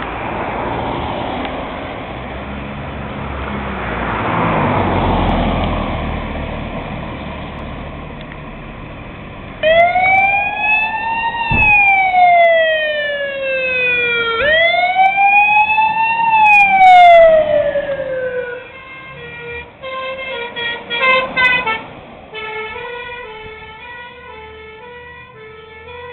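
Road noise of a vehicle passing, then a fire engine's siren wailing in two long sweeps that rise and fall, each about four seconds. After that a quicker pattern of alternating stepped tones takes over.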